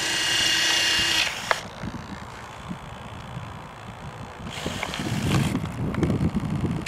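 Electric landing-gear retract units in an FMS B-25 model whirring with a steady whine as the gear is cycled, in two runs: one at the start and another about five seconds in. The nose gear stays jammed in its wheel bay and won't come out.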